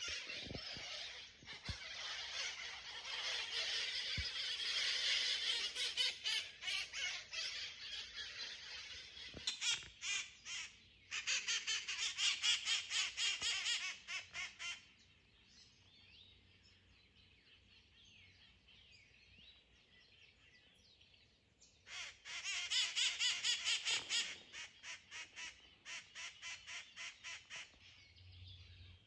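A flock of wild parrots screeching and chattering: a dense loud chorus that thins out about halfway through to scattered quieter calls, then returns loud as a fast run of repeated shrieks.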